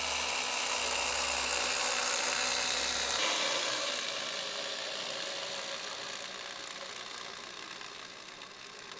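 Märklin mini-club Z-scale model train running, its tiny electric motor giving a high, steady whirr. A low hum cuts off about three seconds in, and the whirr then slowly fades as the train moves away.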